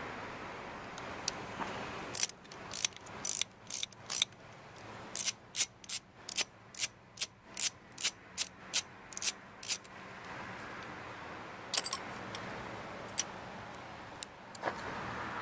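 A socket ratchet clicking in a quick, regular run, two groups of strokes at about two to three clicks a second, as the 10mm bolt on the rear brake reservoir cover is backed out. A few lone clicks follow near the end.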